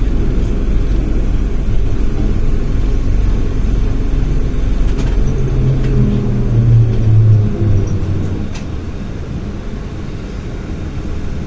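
ZiU-682 trolleybus with contactor-rheostat control under way: a steady low rumble, with a humming tone that grows from about five seconds in and fades near eight seconds, after which the sound eases off.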